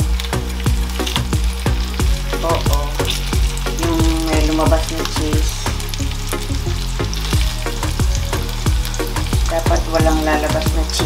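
Tacos sizzling as they fry in a nonstick frying pan, with repeated clicks and scrapes of a nylon spatula against the pan as they are pressed and turned.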